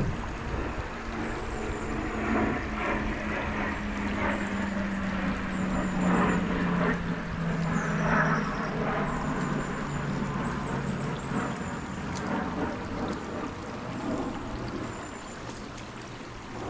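A distant engine drone whose pitch sinks slowly as it passes, over the steady rush of running river water.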